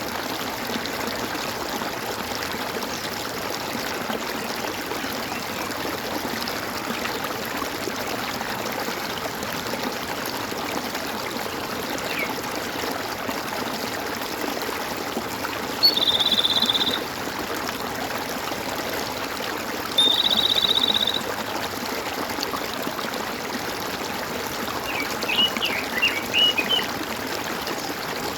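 Water gurgling and trickling steadily, with birds calling over it: two buzzy, trilled calls about a second long each in the middle, then a quick burst of short high chirps near the end.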